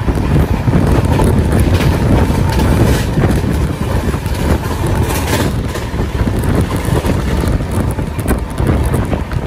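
Rush of wind buffeting the microphone over the rumble of a fast-running express passenger train's wheels on the track, with a few sharper knocks.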